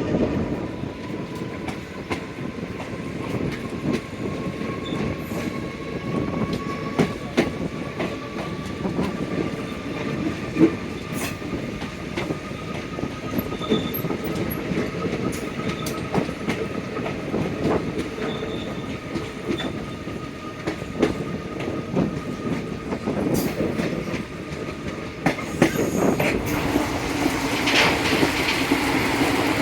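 Passenger train running on the track, its wheels clicking over rail joints at irregular intervals. A faint drawn-out whine rises slowly in pitch through most of it, and the running noise grows louder near the end.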